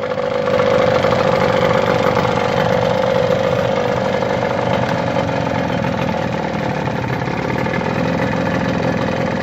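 1990 Johnson 9.9 hp two-cylinder two-stroke outboard motor running steadily at idle.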